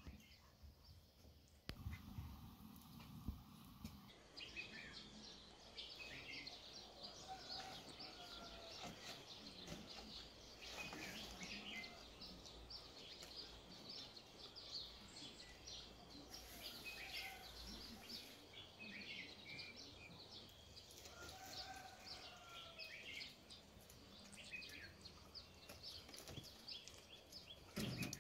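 Faint outdoor ambience with small birds chirping and twittering in quick, scattered calls that start a few seconds in.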